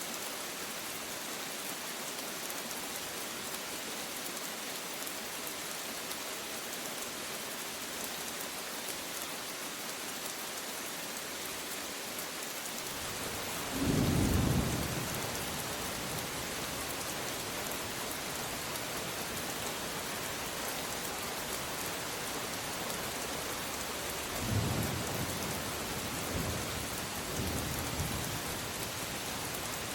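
Steady heavy rain, with a loud roll of thunder about halfway through and a few fainter, shorter rumbles later on.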